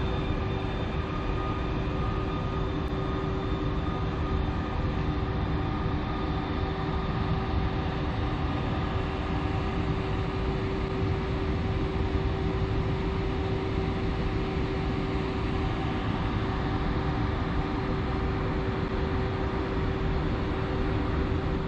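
Electric-hauled Intercity passenger train departing and rolling past: a steady rumble of wheels on rails with a constant electric hum over it.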